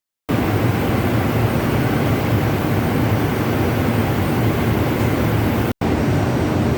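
Steady, loud machinery drone of a ship's engine room, heavy in the low end, starting abruptly just after the start and broken once by a momentary cut near the end.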